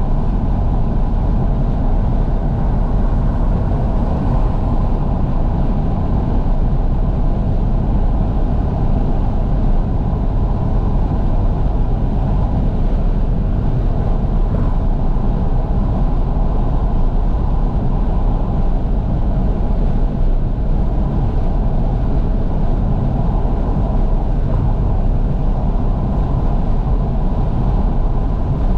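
Steady driving noise inside a 2012 Fiat 500S cabin: wind rushing through the fully open windows over the low rumble of the engine and tyres on the road.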